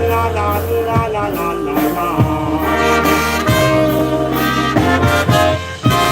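Live polka band playing an instrumental passage of an old Polish waltz, with horns carrying the melody over a steady bass line.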